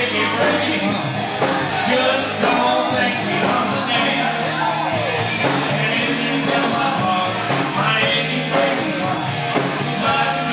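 Rock-and-roll band music playing steadily, with no break.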